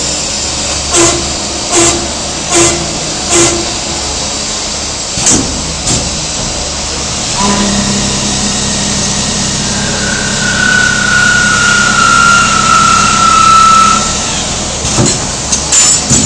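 Machine-tool noise from a CNC polygon lathe at work: four sharp knocks about 0.8 s apart, then a steady motor hum that sets in about halfway. A high whine joins the hum for about four seconds, sliding slightly lower in pitch, and more clicks follow near the end.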